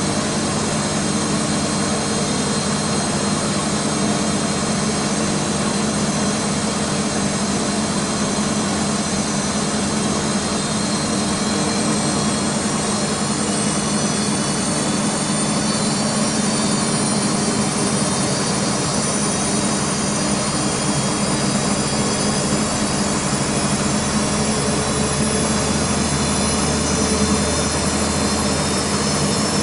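BEKO WMB 51441 washing machine in its high-speed final spin, set to 1000 rpm: a steady motor whine over the rush of the spinning drum. The whine creeps slightly higher in pitch through the second half.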